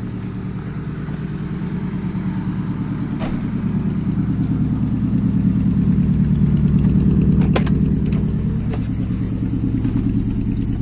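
Chevrolet Kadett's four-cylinder engine idling steadily through a straight-pipe exhaust with no muffler, a deep even pulse, a little louder towards the middle. A few faint clicks.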